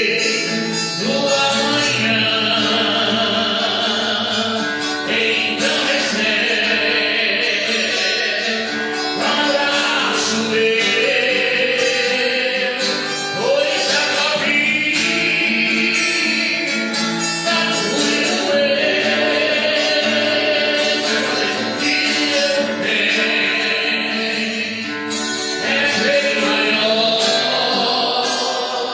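Gospel hymn with voices singing over an instrumental accompaniment.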